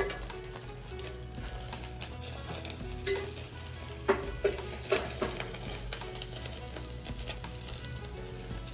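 Food sizzling as it fries in a pan and is stirred, with a utensil knocking against the pan several times near the middle.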